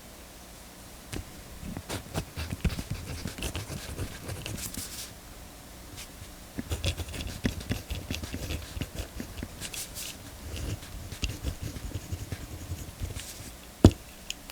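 Mechanical pencils being handled on a desk: scattered clicks, taps and scratchy rustling in two busy stretches, with one sharp loud click near the end.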